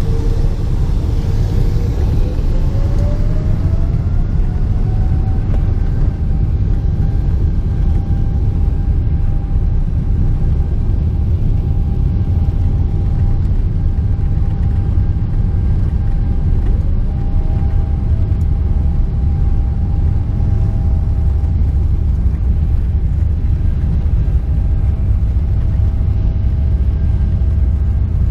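Boeing 777-300ER's GE90 jet engines heard from inside the cabin over a loud, steady low rumble. A whine rises in pitch over the first few seconds and then holds steady as the engines spool up for takeoff, and a second whine rises briefly later on.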